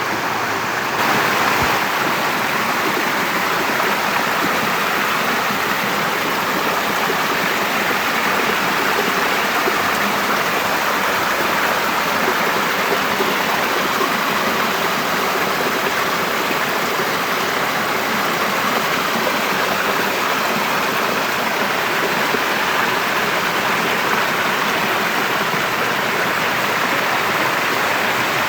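Steady rushing water, an even hiss with no engine note in it, growing a little brighter about a second in and then holding.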